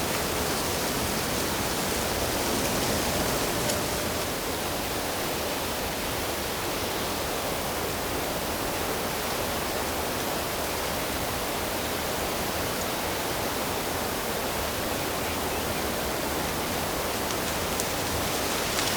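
Steady rush of running water, unbroken throughout.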